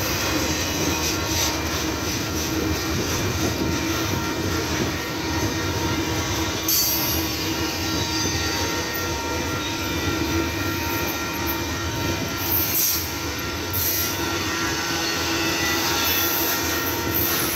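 Double-stack intermodal train's well cars rolling past close by: a steady rumble of steel wheels on the rails with thin, steady squealing tones from the wheels.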